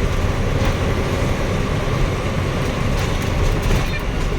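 Steady engine and road noise inside the cab of a moving lorry, heaviest in the low rumble.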